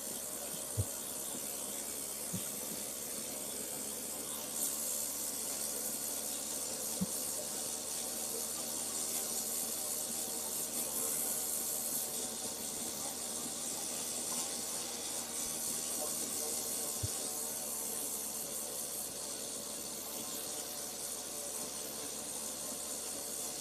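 Irbis Dingo T110 snowmobile engine running steadily under way, under a strong hiss from the track and snow, with a few soft knocks from bumps in the trail.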